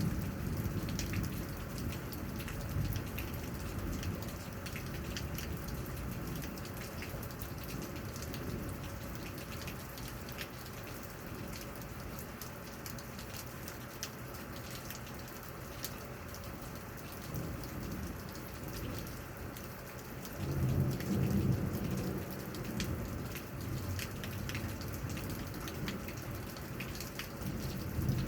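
Steady rain falling, with close drops ticking, during a thunderstorm. Low thunder rumbles at the start and again about twenty seconds in.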